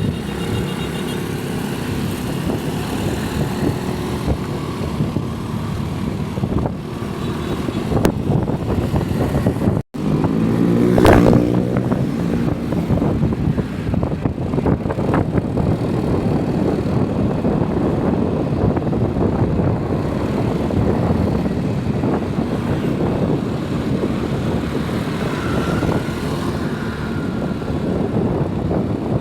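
Steady motor-vehicle running noise. It cuts out briefly about ten seconds in, and a short falling whine follows about a second later.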